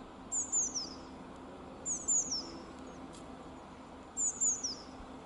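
A small songbird calling in three short phrases about two seconds apart, each a quick run of high, downward-sliding notes.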